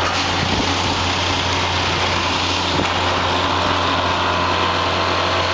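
A railway track maintenance machine running steadily: a continuous engine drone with a dense mechanical noise over it.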